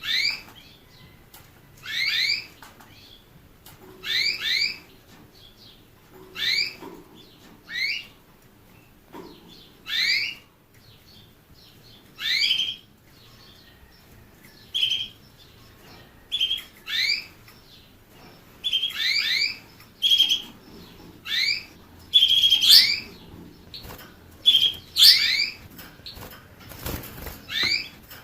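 A songbird calling: repeated rising whistled notes, often in pairs, about every two seconds, coming faster and mixed with short steady notes in the second half. A short noisy burst, such as a wing flutter, comes near the end.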